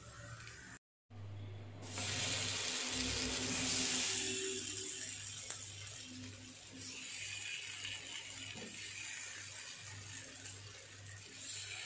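Masala-coated elephant foot yam slices sizzling in hot oil on a flat tawa. The sizzle swells sharply about two seconds in as raw slices go into the oil, then eases and rises again near the end, over a low steady hum.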